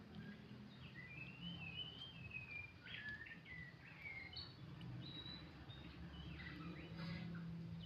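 Oriental magpie-robin (kacer) singing a continuous run of varied, sliding whistled phrases, over a low steady hum.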